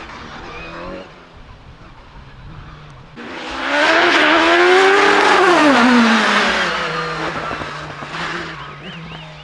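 A hillclimb racing car speeds past at full throttle. Its engine note swells in about three seconds in, climbs in pitch, then drops and fades away as it goes by.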